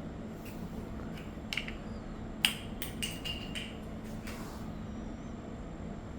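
A handful of light clinks and knocks of small hard objects, like dishware or glass, some with a short ring. The sharpest comes about two and a half seconds in, and a quick cluster follows, over a steady low hum.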